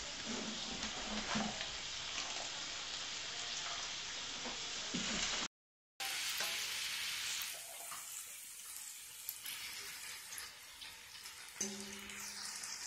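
Chicken dumplings sizzling in oil and lemon juice in a stainless steel skillet, a steady frying hiss. About halfway through the sound drops out briefly at an edit, and the sizzle returns quieter and sparser.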